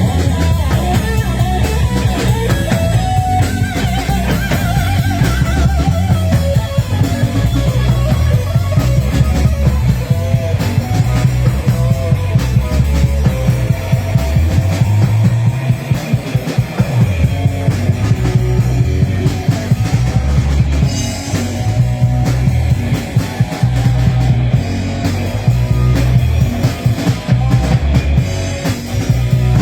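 Live rock band playing an instrumental stretch: electric guitar, bass and drum kit with a steady beat.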